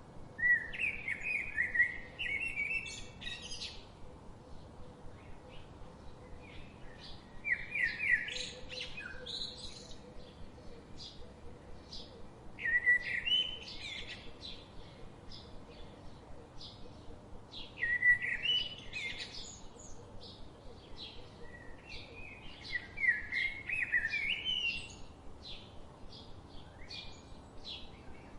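Birds singing: a warbling song phrase of about two seconds repeats roughly every five seconds, over a steady background of short, high chirps.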